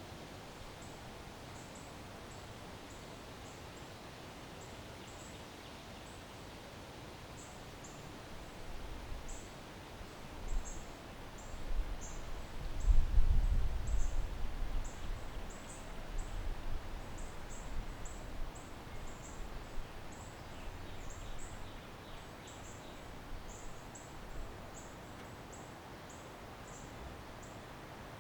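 Backyard ambience: a gust of wind rumbles on the microphone, building about a third of the way in, loudest near the middle and dying away. Short high chirps repeat throughout over a steady background hiss.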